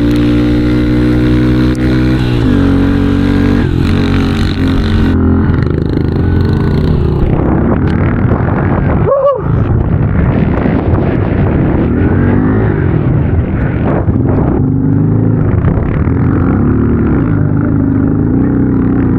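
Small single-cylinder 110cc pit bike engine running under load, loud. It holds a steady pitch at first, drops after about two seconds, then rises and falls again and again as the throttle is opened and closed.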